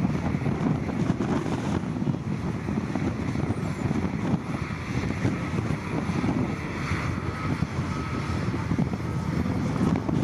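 Diesel engine of heavy earthmoving machinery running steadily, with wind buffeting the microphone.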